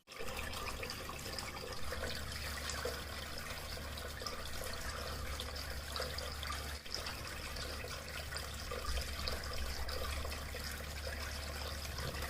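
Water trickling and splashing steadily down a homemade bucket waterfall fountain, with a low steady hum underneath.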